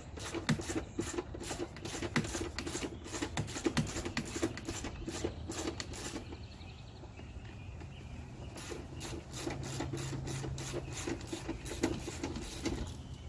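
Hand ratchet clicking rapidly as it loosens a 13 mm seat bolt, in two runs with a short pause in the middle.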